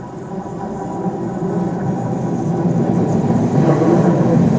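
Electric multiple-unit suburban train approaching the level crossing, its wheel and running noise growing steadily louder as it reaches the crossing near the end.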